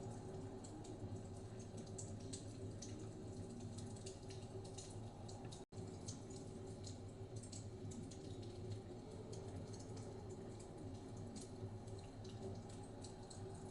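Wood fire crackling in a fireplace, with scattered small irregular pops and clicks over a steady low rumble. The sound cuts out for an instant a little before halfway.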